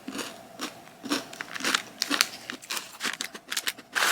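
Crunchy chocolate cereal-ring snack being bitten and chewed, with crisp crunches at about two a second.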